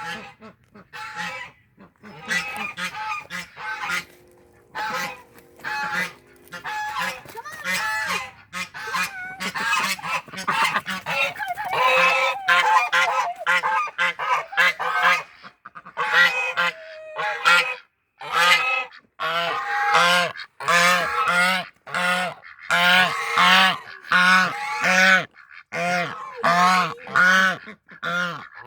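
A flock of domestic geese honking over and over. The calls start scattered and grow louder and more frequent about halfway through, ending in a steady run of honks about two a second.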